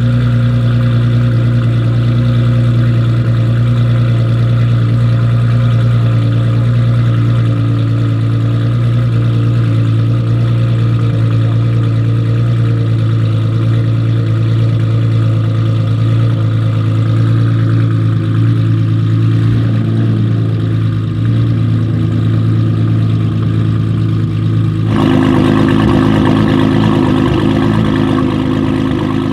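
Nissan GT-R R35's twin-turbo V6 idling steadily with a deep, even exhaust note. About four seconds before the end it sounds closer and brighter.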